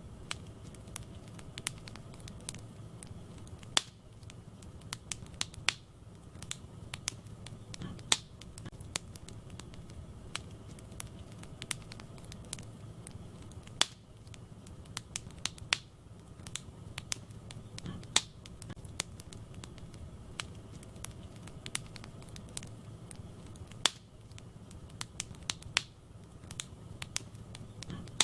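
Wood fire burning in a fireplace: sharp, irregular crackles and pops from the burning logs, a few much louder than the rest, over a steady low rumble of the flames.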